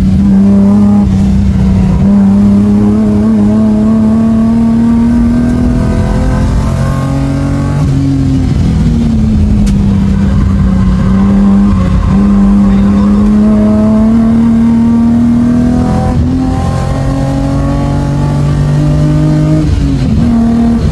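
Engine of a race-prepared car, heard from inside the cabin while being driven hard on a circuit. Its note climbs steadily and then drops back sharply several times.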